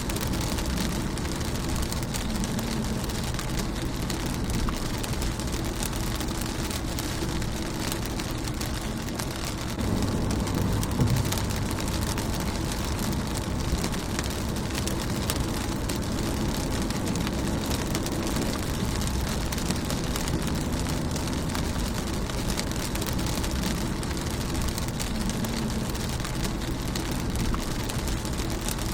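Rain falling on a car windshield: a steady patter of fine drop ticks over a low rumble, swelling briefly louder about ten seconds in.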